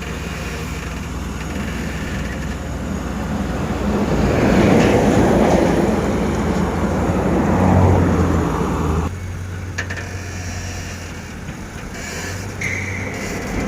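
Heavy truck running and passing, a steady engine hum under a rumble that swells to a peak between about four and eight seconds. The sound drops off sharply about nine seconds in.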